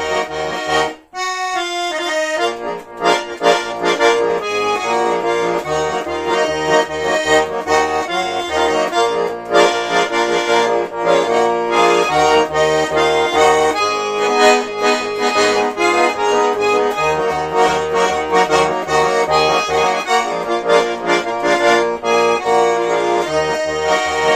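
Garmon (Russian button accordion) playing an instrumental passage: a melody over rhythmic bass chords, with a short break about a second in.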